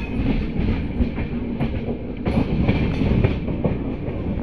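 Train running on the rails, a steady rumble of steel wheels with irregular clattering knocks over rail joints and points.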